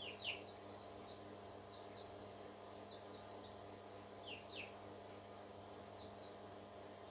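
Faint, short, high chirps from a parrot: single falling peeps and a few quick pairs, scattered about once a second over a steady low hum.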